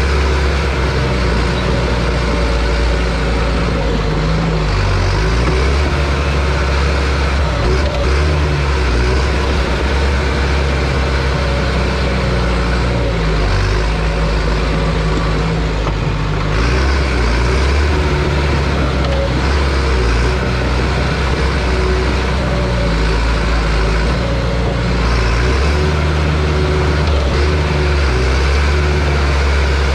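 John Deere bulldozer's diesel engine running loud and steady, its note shifting down and back up several times as it works.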